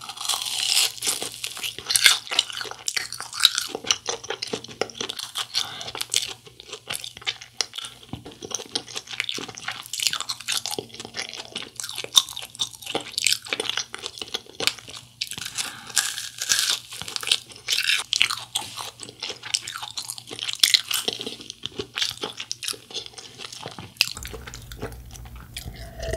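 Close-miked crunching and chewing of a fried cheese ball: bites into the crisp fried coating and steady, irregular chewing crackles.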